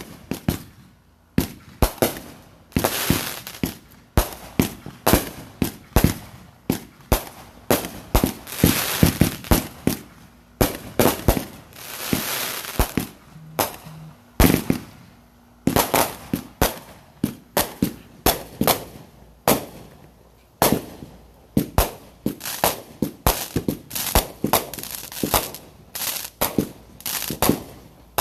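Consumer fireworks going off in a rapid, irregular string of sharp bangs, several a second, like a multi-shot cake. Stretches of hissing crackle run between the reports, with short gaps between volleys.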